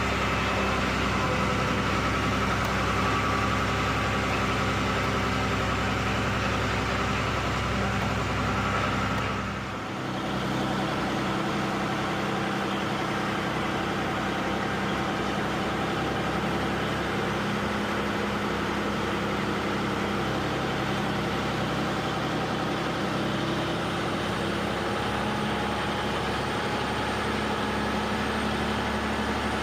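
Truck engine running steadily as the truck climbs a hill road, with a brief drop in sound about ten seconds in, after which the engine note changes.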